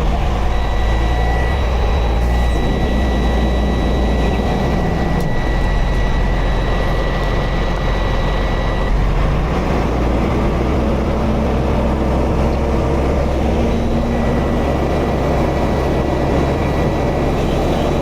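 Heavy tow truck's diesel engine running steadily with a deep rumble while a winch pulls the truck up a steep slope. A thin steady whine rides over it, stopping about nine seconds in and coming back near the end.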